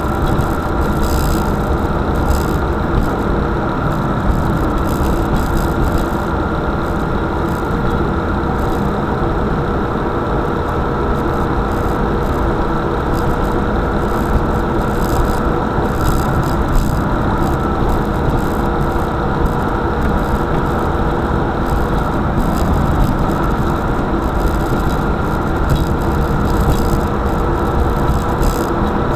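Car engine and road noise while driving, a steady hum and rumble with no change in level.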